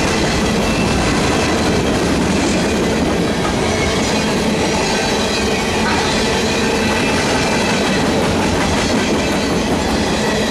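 Freight cars of a CSX freight train rolling past close by: a steady loud rumble and clatter of steel wheels on the rails, with thin steady squealing tones over it.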